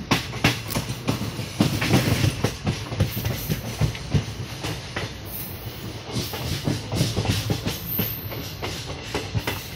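Passenger train running at speed, heard from an open coach doorway: the wheels clatter over the rail joints in irregular sharp clicks over a steady low rumble and rushing noise.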